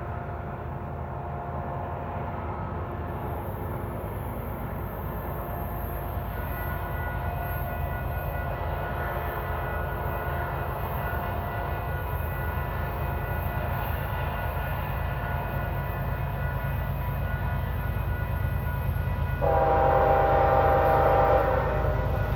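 Union Pacific diesel locomotives working uphill at the head of a container train, a steady low rumble slowly growing louder as they approach. About twenty seconds in, the locomotive horn sounds one chord for about two seconds.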